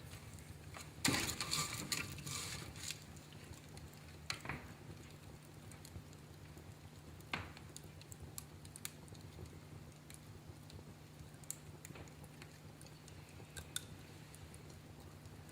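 Wood fire in a fireplace crackling: a quick cluster of snaps about a second in, then single pops every few seconds.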